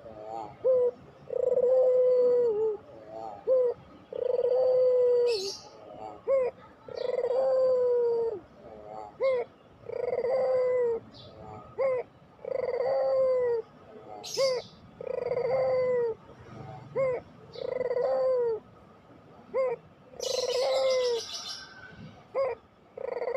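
Puter pelung dove cooing over and over: a long, held coo roughly every two and a half seconds, each one ending in a downward slur, with short clipped notes between them. A few brief high-pitched chirps break in now and then.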